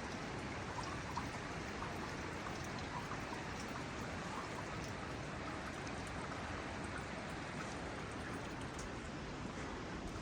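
Steady rushing water, with faint small ticks and drops scattered through it.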